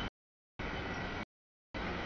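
Noise of the Loram rail-grinding train clearing a grade crossing, with a low steady hum. The sound comes in chunks of about half a second, each cut off dead into total silence: audio dropouts in the camera feed.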